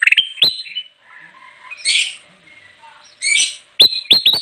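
Kutilang emas bulbul singing loudly: sharp, quick whistled notes about a second apart at the start, two harsh chattering phrases in the middle, then a rapid run of four sharp notes near the end. This is the lively 'gacor' song used as a lure call for trapping the bird.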